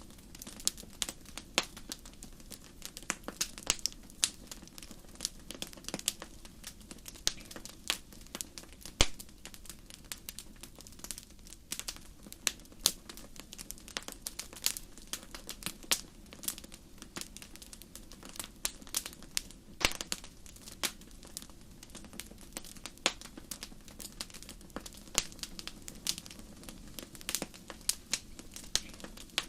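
Wood fire crackling: irregular sharp pops and snaps, several a second, over a low steady rush of flame.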